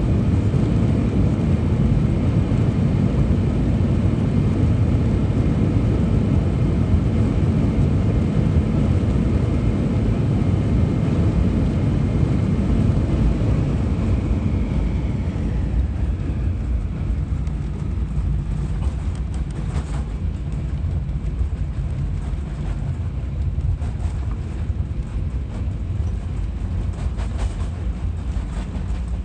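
Airbus A320 cabin noise: a loud engine and airflow rumble, with a whine from the engines that falls in pitch about halfway through as the noise eases off, typical of the engines spooling down after landing. Lighter rattles and clicks follow.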